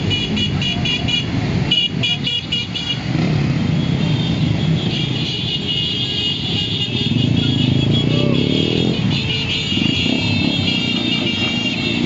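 Motorcycles running in a caravan with horns honking: quick repeated beeps, about four a second, over the first few seconds, then longer held honks.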